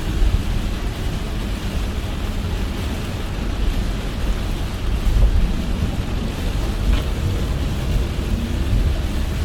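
Car driving in heavy rain: a steady low rumble of road and tyre noise under an even hiss of rain. A faint short tick about seven seconds in.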